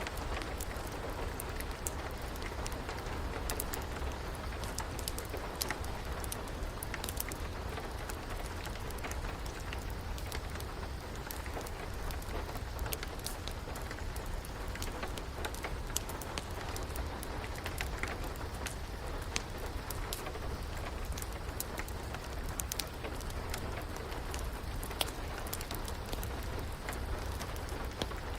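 Steady rain with a fire crackling in a fireplace: an even hiss of rainfall over a low rumble, with many scattered sharp pops and ticks.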